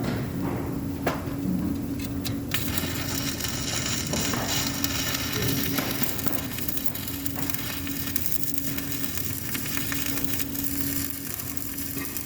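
Electric arc welding: the arc crackles and sizzles steadily after it is struck about two seconds in, over a steady hum from the welding machine.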